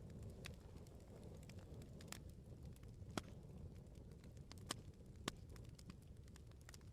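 Wood bonfire burning: a low rumble of flames under scattered sharp crackles and pops of the burning firewood, the loudest pops a little after three seconds and a little past five seconds in.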